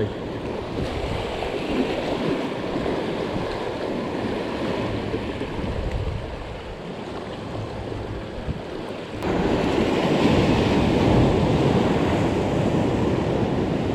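Sea waves washing against a rocky shore, with wind buffeting the microphone. The surf noise steps up suddenly and stays louder from about nine seconds in.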